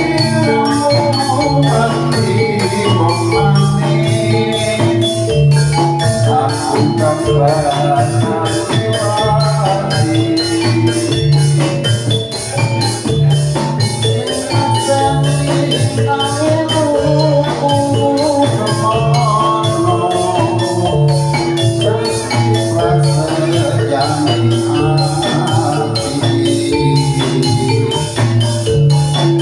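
Recorded music with a steady beat and a heavy, repeating bass line, played loud through a large PA sound system under test.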